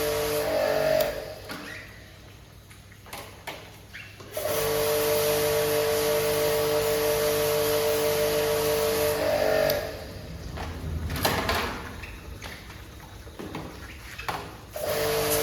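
A steady droning tone with a second tone just above it, cutting out twice for several seconds. In the gaps, quieter hissing noise with scattered clicks is left.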